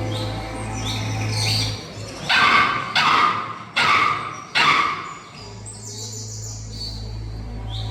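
Garden ambience of birds chirping, with a dog barking about four times in quick succession in the middle. A steady low hum runs under it and drops out while the dog barks.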